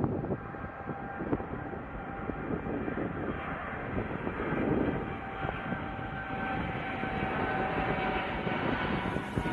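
Airliner taking off: engines at takeoff power, a steady noise with a held whine, slowly growing louder.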